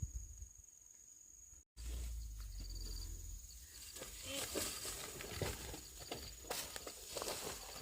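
Scattered rustling with light clicks and knocks, over a steady high-pitched insect drone. The sound drops out completely for a moment about two seconds in.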